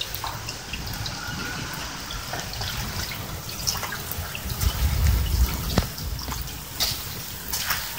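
Rain falling on a flat concrete rooftop, with many scattered drips and splashes ticking on wet concrete and puddles. A low rumble swells briefly about five seconds in.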